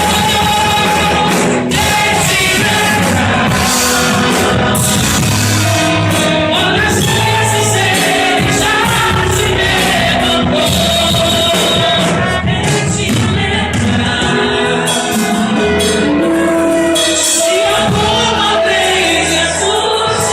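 Gospel song with singing over instrumental accompaniment, loud and continuous.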